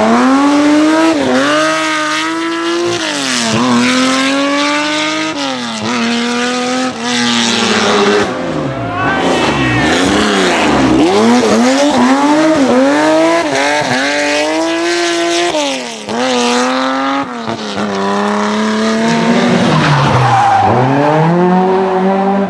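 Classic rally car engine revving hard, its pitch climbing and dropping again about ten times as the driver works the throttle and gears, with tyres squealing as the car slides.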